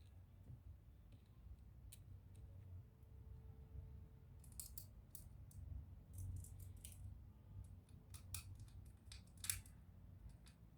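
Faint, scattered clicks and ticks of small plastic and metal laptop parts being handled during disassembly, in irregular clusters, the sharpest click about nine and a half seconds in.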